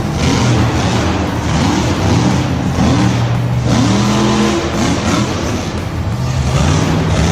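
Monster truck engine revving in a run of quick swells, its pitch rising and falling about six times, then settling to a steady drone near the end.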